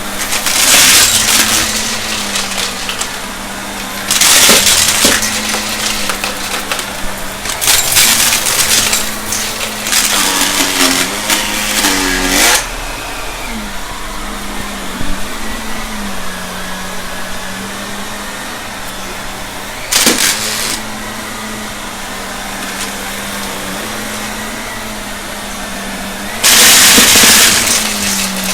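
Shark vacuum cleaner running with a steady motor hum, broken several times by loud rattling and crackling bursts as debris from a test mess is sucked up the hose.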